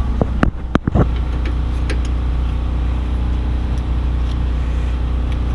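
A few sharp metal clicks and knocks in the first second from a wrench and socket being fitted to a brake caliper bolt, over a steady low hum.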